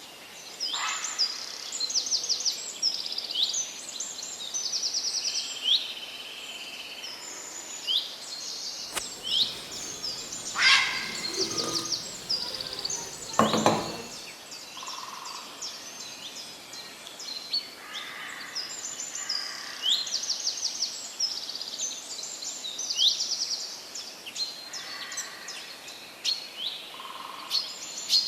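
Several birds chirping and calling: many short upward-sweeping chirps and quick trills. A louder, lower sound comes about halfway through.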